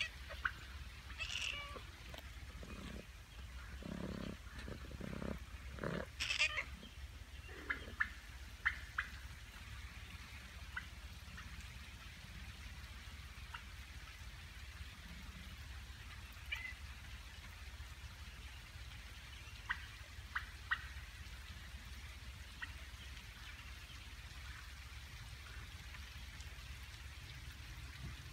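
Steady rain on a farm. Several animal calls come in the first eight seconds or so, then only short scattered high ticks.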